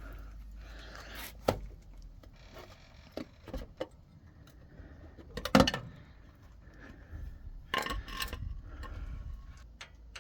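Irregular clicks, clinks and knocks of hand tools and metal parts being handled during work on an air-cooled VW engine, the loudest knock about five and a half seconds in and a few more around eight seconds in.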